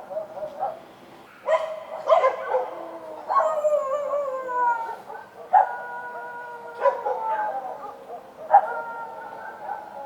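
Street dogs barking and howling, several sharp barks each running on into a long howl that slowly falls in pitch, with more than one dog calling.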